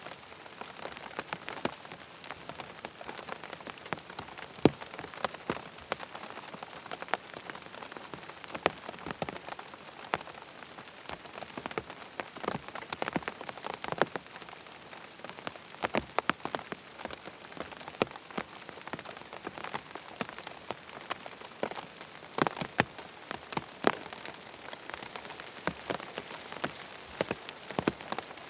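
Steady rain falling, with many sharp individual ticks scattered irregularly through it.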